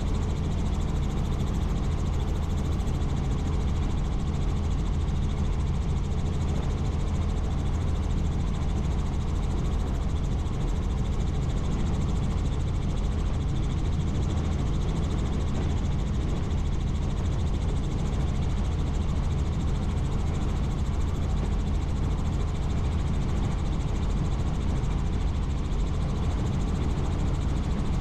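Helicopter in flight: steady rotor and engine noise with a constant low hum, unchanging throughout.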